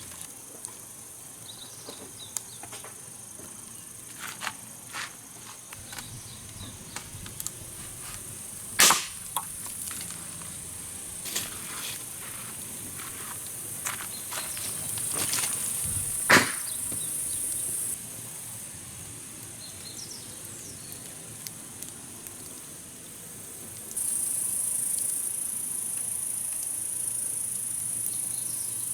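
Insects chirring steadily at a high pitch, louder from near the end, with scattered sharp pops and clicks, two of them much louder, typical of a wood campfire crackling.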